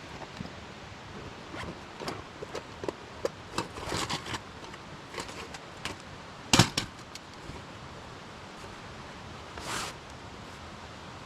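Camping gear being handled: scattered clicks and taps, one loud knock about two-thirds through, and a short swish near the end.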